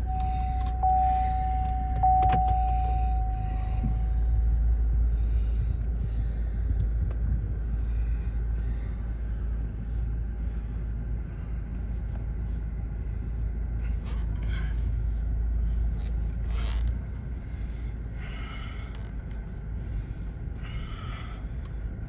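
Low steady rumble of a car heard from inside it, which drops away about 17 seconds in. A steady tone fades out over the first few seconds, and a few light clicks sound.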